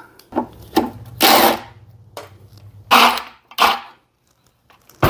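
Sharp metallic knocks and clanks with two longer rasping scrapes, about a second and three seconds in, as the fuel tank is taken off an old Briggs & Stratton mower engine, over a low hum.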